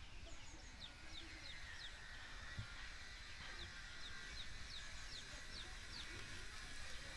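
Small birds chirping: runs of short, high, falling notes, several a second, coming in bursts, faint against a quiet rural background.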